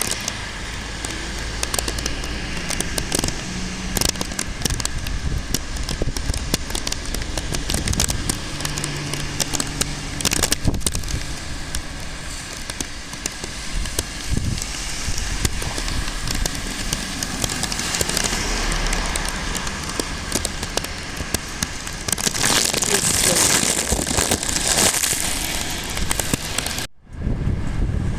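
Storm noise during a typhoon: a steady rush of wind and rain with dense crackling and clicking, as of raindrops and gusts hitting the microphone. The sound cuts out abruptly about a second before the end.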